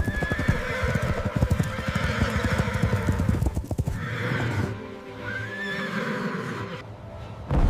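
A horse's hooves clip-clopping quickly for the first half, then a horse whinnying, over background music.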